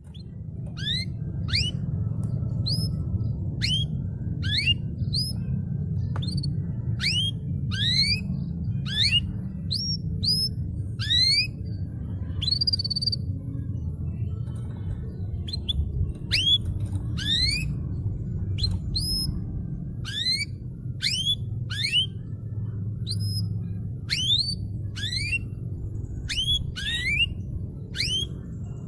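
Domestic canary calling: short, sharply rising whistled notes repeated about once or twice a second, over a steady low background rumble.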